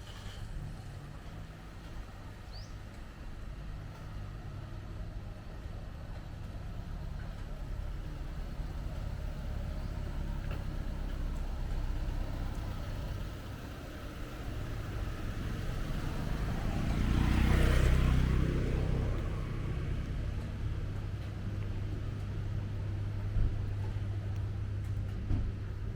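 Street traffic running steadily. One vehicle passes close by, swelling and fading about two-thirds of the way through.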